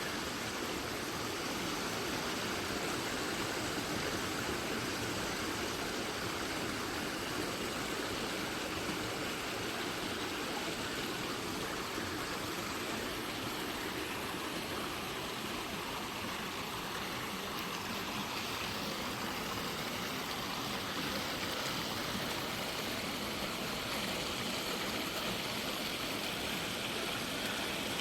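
Mountain stream rushing: a steady, unbroken wash of water noise that starts abruptly at a cut and holds level.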